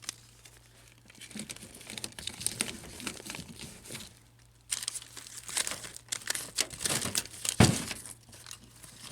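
Plastic jacket of an insulated flex duct crinkling and rustling as it is handled and fitted over the duct connection, on and off, with one sharp knock near the end.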